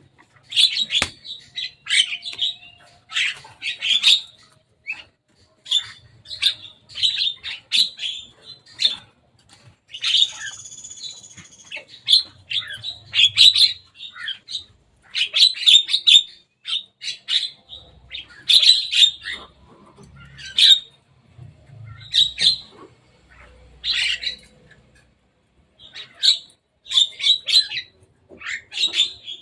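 Javan myna calling: clusters of short, harsh chattering calls repeated throughout, with a brief whistled phrase about ten seconds in.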